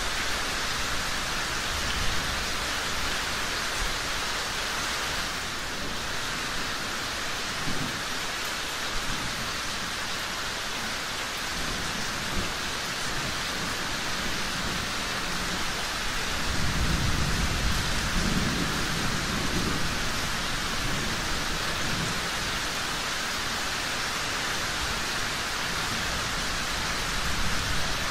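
Steady rain falling, with a low rumble of thunder rolling in a little past the middle and fading after a few seconds.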